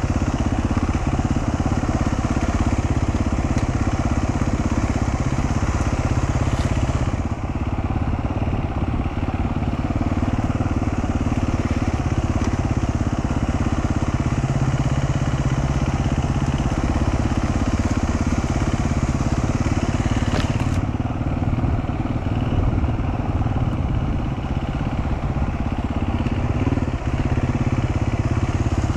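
Dual-sport motorcycle engine running steadily while riding a trail, mixed with riding noise.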